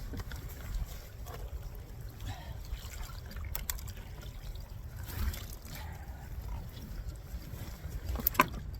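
Water trickling and splashing against a steady low rumble of wind on the microphone, with a few sharp knocks: two close together a few seconds in and a louder one near the end.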